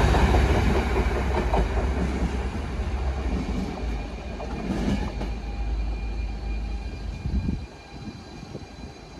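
A DSB train running through the station, its rumble and wheel noise on the rails fading steadily as it moves away, then dropping off suddenly about three-quarters of the way in.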